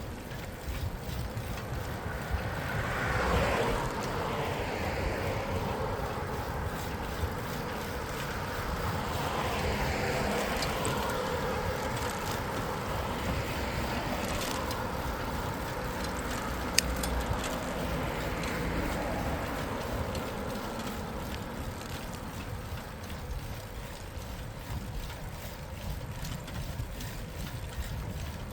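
Wind rumbling on the microphone of a moving bicycle, with street traffic swelling and fading as it passes a few times. One sharp click about two-thirds of the way through.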